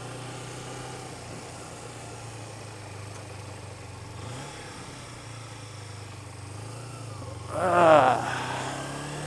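Kawasaki Ninja 250's parallel-twin engine running steadily at low revs. About eight seconds in, a brief louder wavering pitched sound rises over it.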